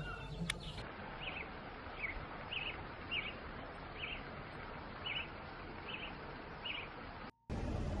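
A bird giving short chirps, repeated about once a second, over steady outdoor background hiss. The sound cuts out briefly near the end.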